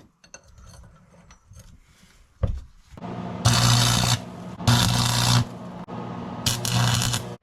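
Electric welder welding a steel bolt onto a knife tang: three short welds of about a second each, with a steady electrical hum from the welder between and under them. A few light clicks of handling come first.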